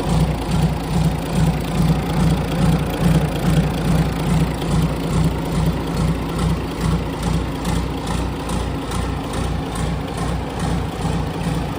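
Isuzu UM6BG1TC2 six-cylinder turbocharged marine diesel idling steadily, with an even, regular pulse.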